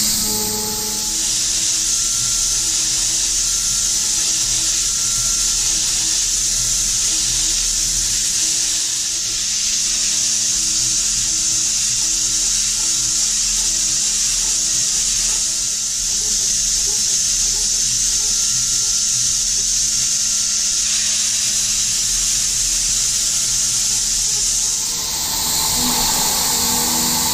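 A vertical machining center milling with a high-speed spindle: a steady, high hiss of cutting that eases briefly a few times as the tool moves between passes, with background music underneath.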